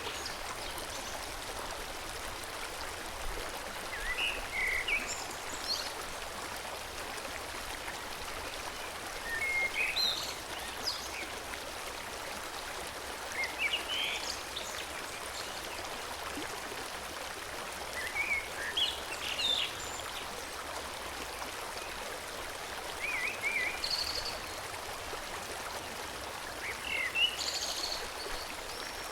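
Forest stream flowing steadily, with small birds chirping in short bursts every few seconds.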